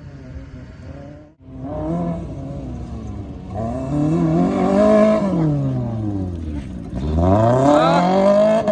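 Race car engine accelerating hard, its pitch climbing, then falling away for about two seconds before climbing steeply again near the end.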